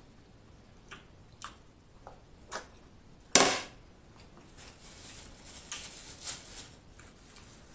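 Close-miked chewing of a mouthful of rice with soft wet clicks and smacks. About three and a half seconds in there is one loud, sharp mouth noise, followed by a stretch of denser, crackly chewing.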